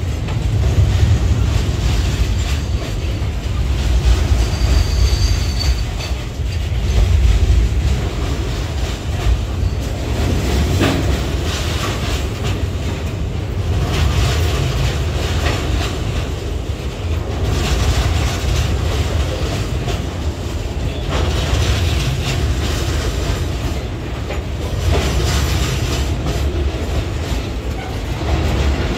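Loaded freight wagons, boxcars then tank cars, rolling past on steel rails: a steady low rumble with a clickety-clack of wheels over rail joints, and a short high wheel squeal about five seconds in.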